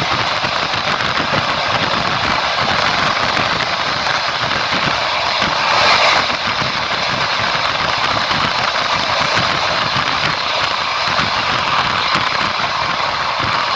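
Passenger train carriage running at speed: a steady rush and rumble of wheels on the rails, with a brief louder swell about six seconds in.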